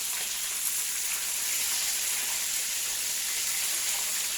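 Chicken frying in hot oil, a steady sizzle.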